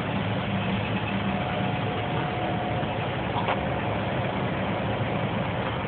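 Large engine idling steadily, with a low hum and a faint steady whine over it; a single short click about three and a half seconds in.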